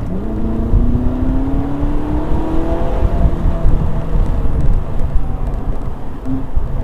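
Ferrari 458 Italia's mid-mounted, naturally aspirated 4.5-litre V8 accelerating. The engine note rises steadily in pitch for about three seconds, then holds steadier over a constant road and wind rumble.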